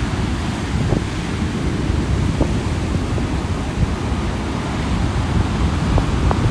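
Sea surf breaking and washing on a beach in a steady, loud wash of noise, with wind buffeting the microphone.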